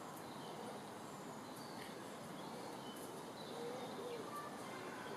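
Steady outdoor background hiss with faint bird calls: a few short high chirps and a soft low cooing call about halfway through.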